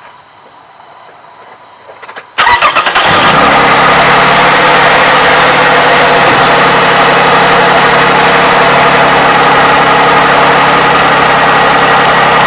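Toyota 3.5-litre V6 cold-started: after about two seconds of quiet it cranks briefly, catches at once and settles into a steady idle. No valve-timing advance clacking is heard on the start, which the owner puts down to the graphene oil additive.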